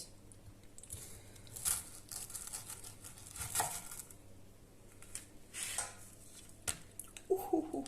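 A knife cutting into a set chocolate fridge cake: a few short, scattered crunches and crackles as the blade breaks through.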